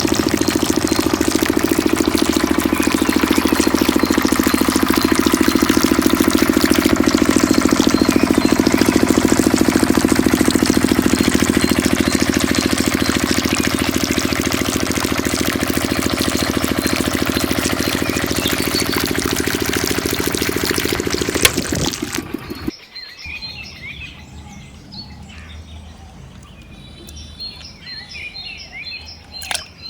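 Mini diesel engine running steadily and fast, driving a small water pump. It cuts off abruptly about 22 seconds in, and birds chirp afterwards.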